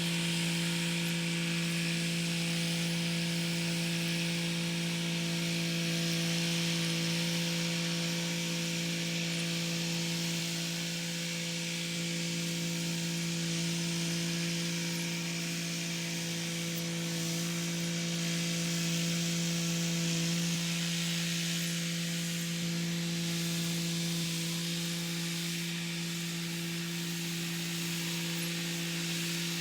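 Kubota SL35 tractor's diesel engine running steadily under load while driving a rotary tiller: a constant even drone with a steady hiss over it.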